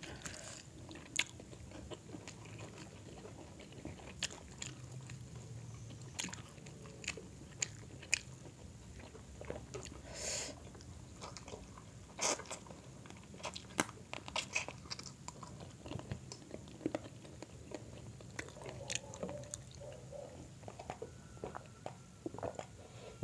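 Close-miked chewing of grilled chicken and rice eaten by hand, with wet mouth sounds and scattered sharp clicks and crunches.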